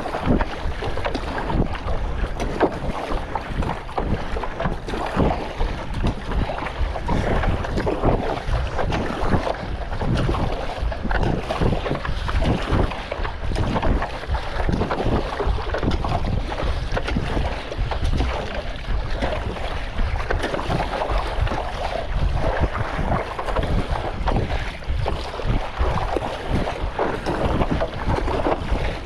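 Strong wind buffeting the microphone with a steady low rumble, over choppy sea water splashing and slapping around a stand-up paddleboard in irregular surges.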